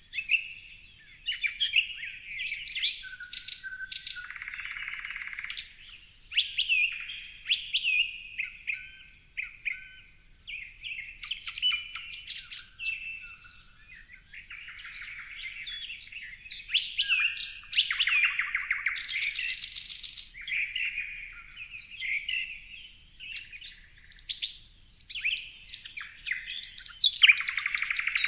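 Several birds chirping and singing together, a dense mix of short whistles, chirps and trills, with a harsh buzzy rattle around the middle.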